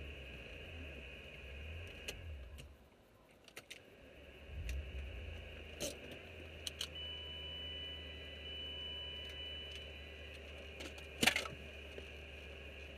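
Car engine heard from inside the cabin, a low steady hum as the car rolls to a stop and idles; the hum dips briefly about three seconds in and picks up again. Scattered small clicks are heard, and a louder short clattering rattle comes about eleven seconds in.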